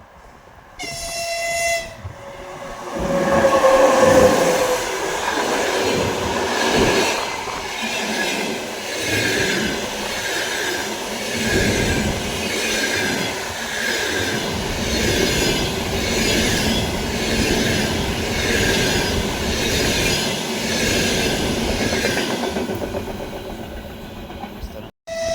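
A train gives a short horn blast, about a second long, then passes close by at speed, its wheels clattering rhythmically over the rail joints. The passing cuts off abruptly near the end.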